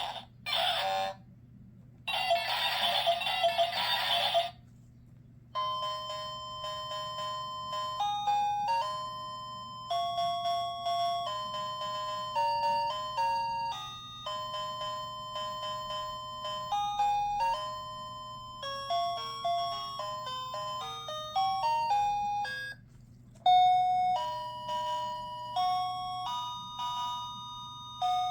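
A sound book's electronic sound chip plays a simple tinny melody of beeping notes, starting about five seconds in. Before it come a few short bursts of noise, the longest about two seconds.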